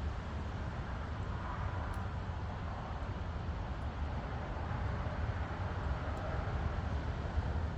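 Steady, even rumble of distant road traffic from a nearby expressway.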